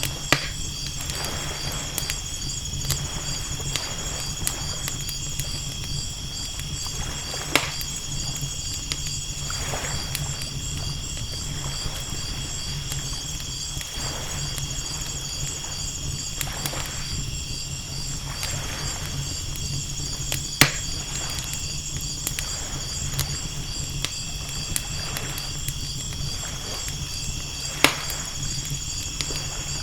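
Campfire crackling with a few sharp pops, over waves washing in slow swells every few seconds. A steady, pulsing high-pitched trill of night insects runs underneath.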